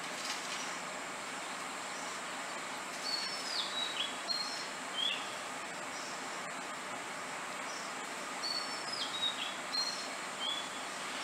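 A wild bird's whistled phrase of several short notes, some flat and some slurring downward, sung twice about five seconds apart over a steady outdoor hiss.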